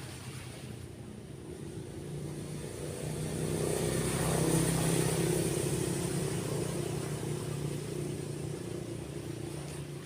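A motor vehicle passing by, its engine hum growing louder to a peak about halfway through, then fading away.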